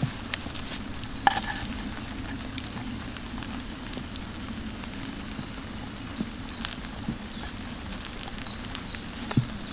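Irregular light pattering and clicks, like raindrops tapping a tarp, over a steady low background. A run of faint, short high chirps comes in from about halfway.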